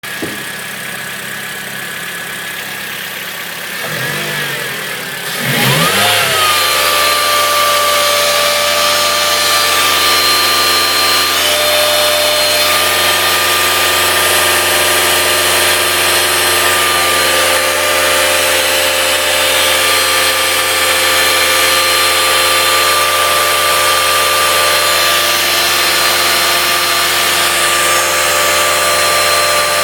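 Mitsubishi Lancer GT engine: its pitch rises and falls about four to six seconds in, then it runs steadily and louder with a steady whine over it. This is the unusual noise that the owner is asking about.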